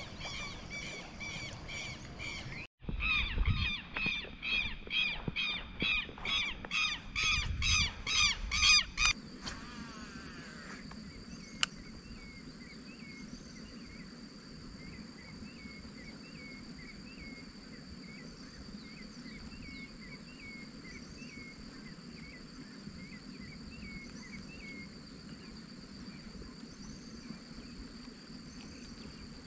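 A bird calling over and over, a harsh call about twice a second that breaks off briefly and comes back louder for several seconds before stopping. Then only faint scattered bird chirps over a steady rural background.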